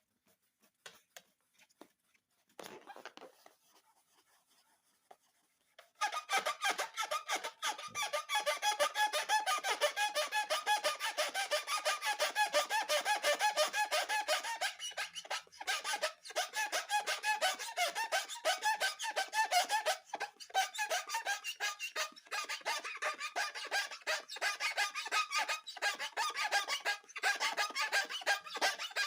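Rubber balloons squeaking as they are rubbed and squeezed by hand, a rapid, continuous run of high squeaks that starts about six seconds in after a few faint clicks.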